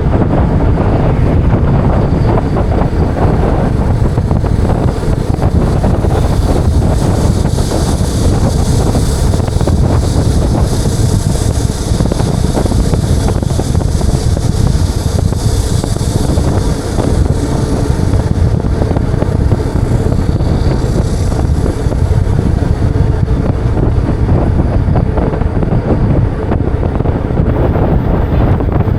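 Wind rushing over the microphone of a moving bike: a loud, steady low rumble with a hiss on top that grows stronger for a stretch in the middle.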